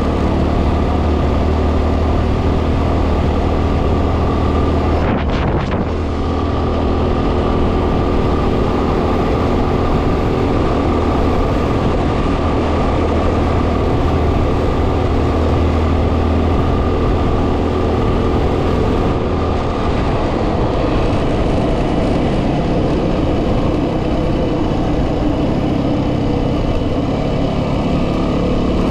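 Yamaha WR250R's 250 cc single-cylinder four-stroke engine running at a steady cruise on a dirt track, under heavy wind noise on the microphone. The low engine hum drops about twenty seconds in.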